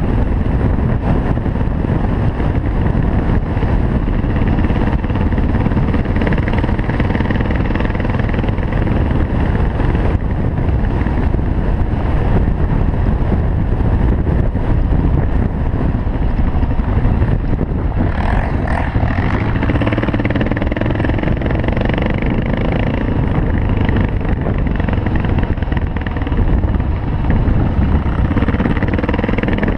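Cagiva W16 enduro motorcycle engine running under way on a rough track, heard from the bike itself through heavy wind rush on the microphone. The engine note rises and falls for a few seconds a little past the middle.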